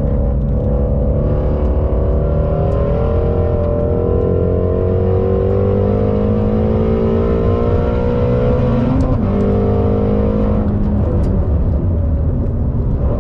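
Ford Mustang engine heard from inside the cabin, pulling hard under full throttle with its pitch climbing steadily. About nine seconds in there is a quick upshift, the pitch drops and climbs again, then near the end the throttle is lifted and the note falls to a low, uneven running sound.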